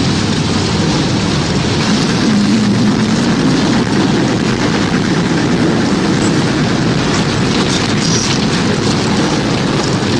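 Tornado wind sound effect: a loud, steady rumble of dense noise, heaviest in the low range, with no distinct strikes.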